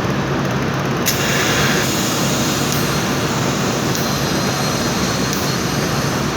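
Steady, loud mechanical noise, with a sharp click about a second in followed by a brief hiss.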